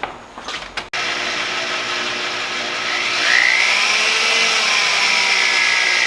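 A small electric motor switches on about a second in and runs steadily. Its whine rises in pitch and then holds level.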